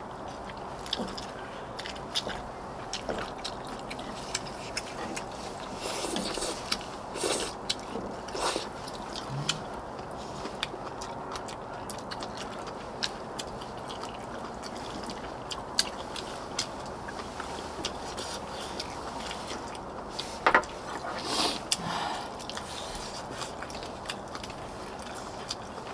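Eating sounds of spicy braised monkfish: chewing, soft wet slurps and sucking, with utensils clicking and scraping against dishes. A few louder slurps come in two clusters, around a quarter of the way in and again near the end, over a steady background hiss.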